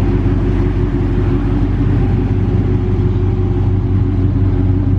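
Dodge Charger R/T's 5.7-litre HEMI V8, exhaust running through Super 10 mufflers with the resonators deleted, held at a steady engine speed. The exhaust note is loud and deep.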